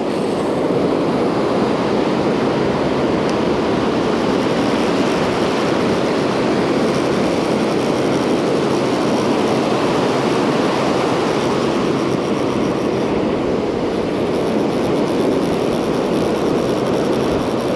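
Steady roar of ocean surf breaking, with wind buffeting the microphone.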